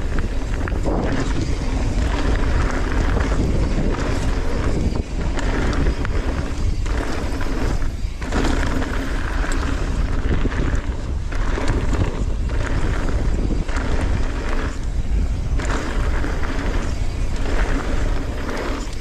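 Wind rushing over the camera microphone, mixed with tyre roar and frame rattle from a mountain bike ridden fast over a dirt jump trail. The rumble swells and dips unevenly through the run.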